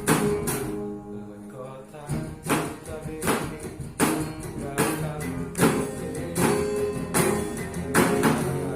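Music: an instrumental passage of strummed acoustic guitar, with regular strokes and held chords.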